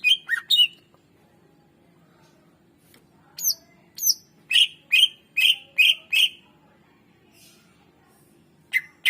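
Greater green leafbird (cucak ijo) calling in sharp, loud notes. A quick burst of three opens it, two high downward-sweeping whistles follow about three and a half seconds in, then a run of five rapid notes about two and a half a second, and another burst near the end. A faint steady low hum runs underneath.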